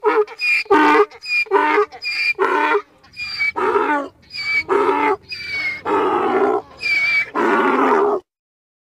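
Donkey braying: a long series of hee-haws going back and forth about once a second, the last ones drawn out longer, cutting off abruptly about eight seconds in.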